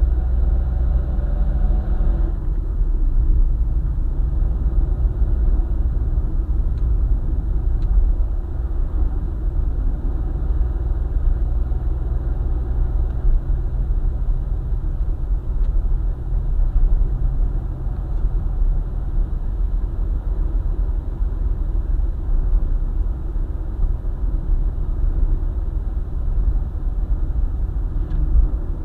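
Car driving on a highway: a steady, heavy low rumble of road and engine noise. A pitched engine note stands out for the first couple of seconds, then fades into the rumble.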